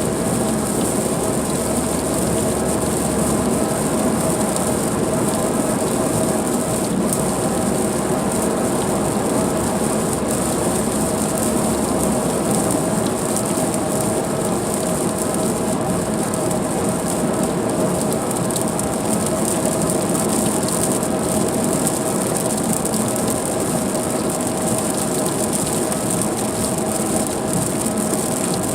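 Car driving in heavy rain: a steady wash of road and engine noise with the hiss of rain and spray on the wet road, unchanging throughout.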